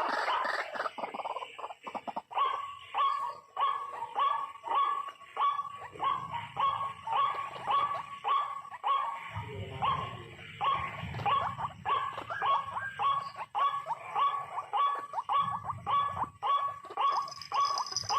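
White-breasted waterhen 'ruak-ruak' calls repeated in a rhythmic series of short notes, about two a second.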